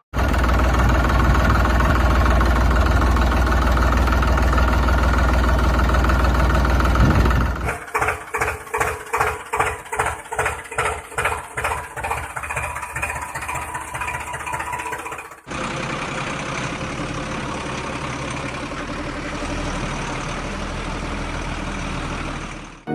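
Engine running in three abruptly joined stretches: a loud steady rumble, then a rhythmic chugging about twice a second from about 8 seconds in, then a steadier hum from about 15 seconds in.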